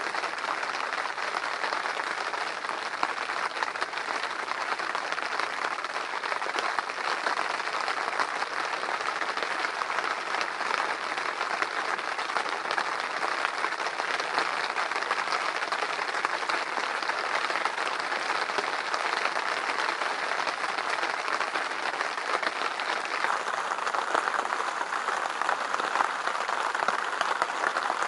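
Heavy rain beating steadily on a hunting blind, a dense, even hiss of countless drops.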